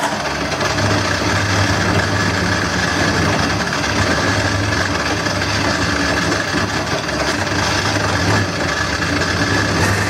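Wood lathe running steadily, a continuous motor hum under a broad whirring noise.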